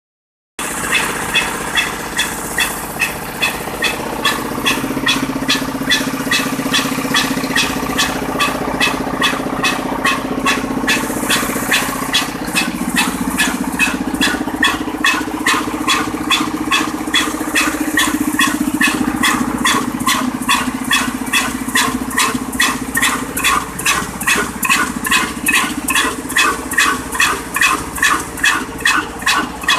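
Slow-speed 22 HP desi diesel oil engine running steadily, with an even chug about twice a second over a low hum.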